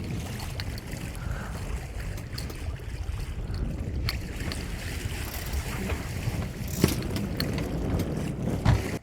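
Wind buffeting the microphone aboard a sailboat at sea, a steady low rumble over the wash of water, with a few small ticks and one sharper knock about seven seconds in.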